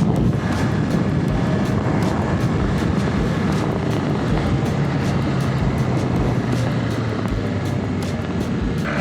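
Motorcycle running steadily at road speed, its engine hum under heavy wind rush on the microphone.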